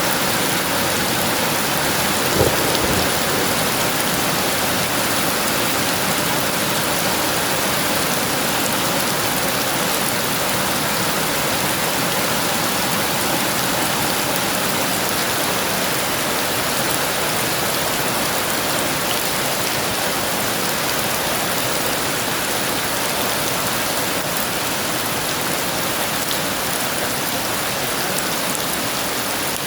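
Heavy rain falling steadily. About two and a half seconds in there is a single short, sharp crack.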